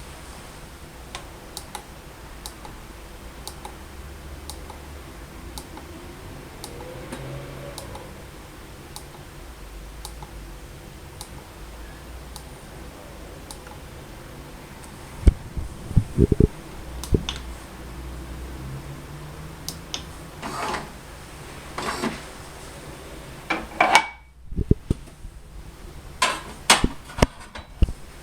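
Faint steady low hum with light ticks, then a run of sharp clicks and knocks from about halfway: handling and operating a Gaggia Titanium bean-to-cup coffee machine.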